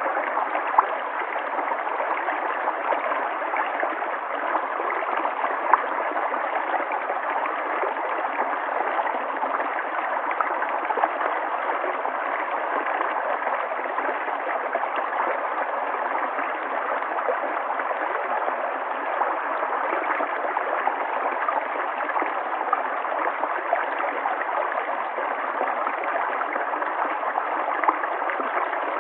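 River water flowing steadily over rocks, a continuous rush with small splashes and gurgles.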